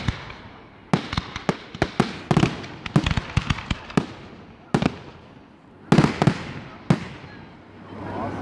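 Aerial fireworks bursting overhead: a rapid run of sharp bangs and crackles, densest in the first half, with a loud cluster of reports about six seconds in and a last bang a second later.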